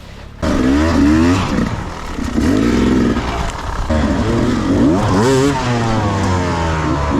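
Dirt bike engine revving up and down again and again under throttle, starting sharply about half a second in.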